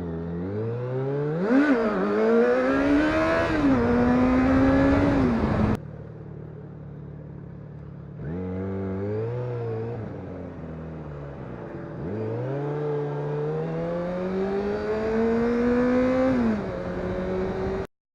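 Motorcycle engine accelerating hard, its pitch climbing and dropping back at each gear change. The sound cuts abruptly near the middle, then another run of acceleration through the gears follows, and it cuts off suddenly just before the end.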